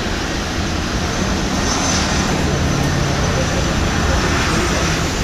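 Aircraft engine noise: a steady, even rush with a low hum underneath that comes in about two seconds in.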